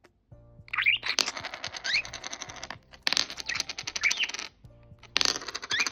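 Budgerigar chattering in three bursts of fast clicks with short rising chirps, over soft background music.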